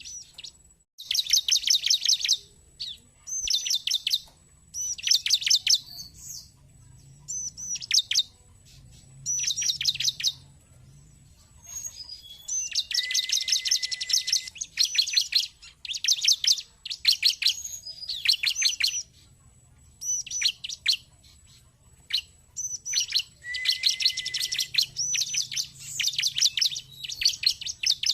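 Bar-winged prinia (ciblek) calling: repeated bursts of rapid, high chirps, each burst about a second long, with short pauses between.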